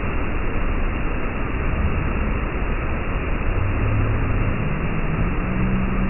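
Steady rushing noise of a waterfall, a constant loud roar of falling water with no breaks.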